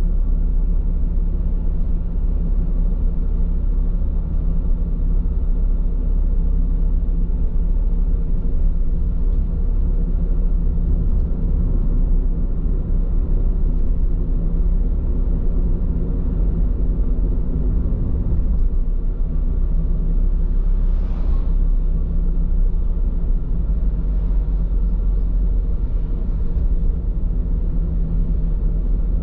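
Steady low road and tyre rumble of a car driving at speed, heard inside the cabin, from Bridgestone Regno tyres. A short rushing noise stands out about two-thirds of the way through.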